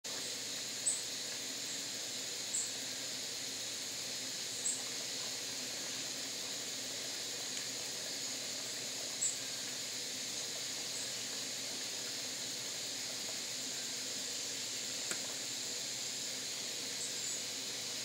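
About seven short, high bird chips, irregularly spaced, over a steady high hiss.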